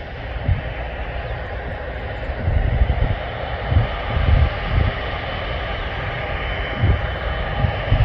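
Airbus A330-200 jet engines running at taxi power: a steady jet noise with a faint high whine, broken by irregular low rumbling gusts.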